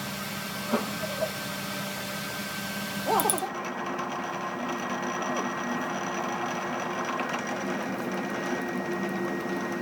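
Workshop machine running steadily with a constant hum, which changes abruptly to a different, steadier hum about three and a half seconds in.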